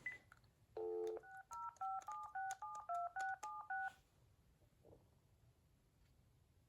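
A telephone dialing a number in touch tones: a short low tone, then about ten quick DTMF beeps in under three seconds, each a pair of tones. This is the call being placed to make the cordless phone ring for a ringing test.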